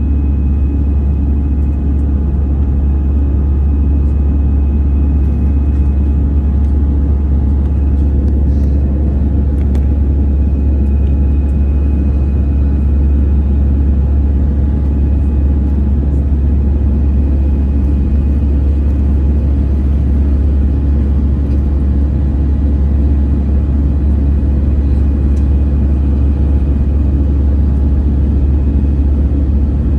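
Steady rumble of an airliner's engines and airflow heard inside the passenger cabin, with a deep low drone and a few faint steady tones above it.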